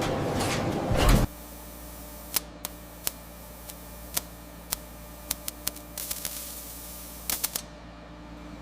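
A loud noisy rush cuts off suddenly about a second in, leaving a low steady hum with a dozen or so sharp, irregularly spaced mechanical clicks and ticks.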